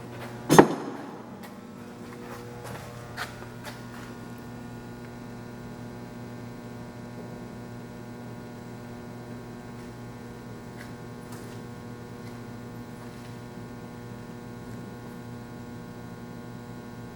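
Doall 3613 vertical bandsaw running with a steady electric hum. A sharp clunk about half a second in and a lighter click about three seconds later.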